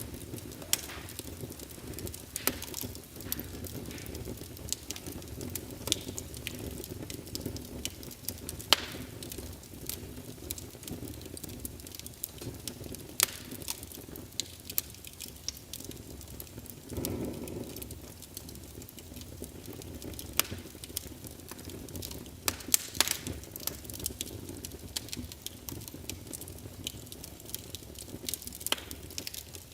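Wood fire in a fireplace crackling, with irregular sharp pops over a steady low rush and a brief swell of the fire's noise a little past halfway.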